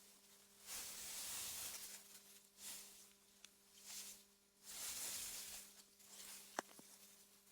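Faint synthetic wind ambience: soft gusts of hiss that swell and fade every second or two, over a steady low hum, with one sharp tick about six and a half seconds in.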